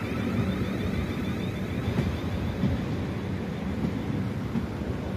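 South Western Railway passenger train running past along the platform: a steady rumble of wheels on rail with occasional sharp clacks.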